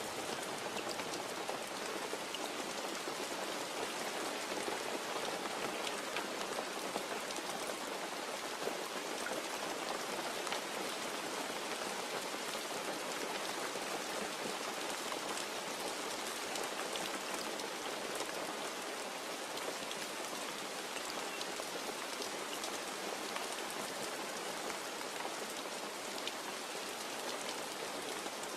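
Steady rain falling and pattering on a surface, with individual drops ticking through the even hiss; no thunder.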